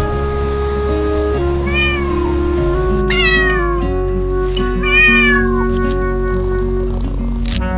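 A cat meowing three times, each meow a rising-then-falling cry, over background music.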